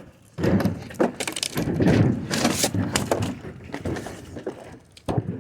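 An old refrigerator being tipped and shoved into place: scraping, knocking and rattling. It starts sharply about half a second in and stops shortly before the end.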